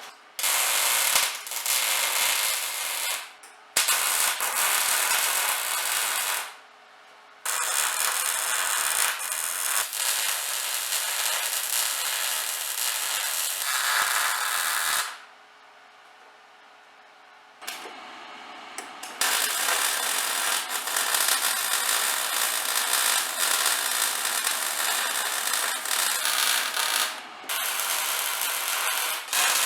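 Electric arc welding on a steel trailer frame: a welder's crackling hiss comes in about five separate welds of a few seconds each, the longest about eight seconds, with short pauses between them.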